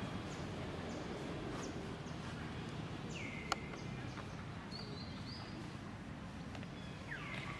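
Steady outdoor background noise with a few short, high chirps that drop in pitch, and a single sharp click about three and a half seconds in.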